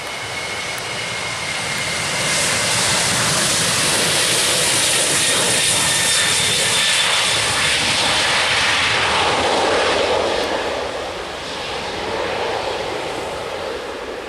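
Jet airliner's engines passing low overhead: a rushing roar with a thin high whine swells about two seconds in, stays loud, and dies away after about ten seconds.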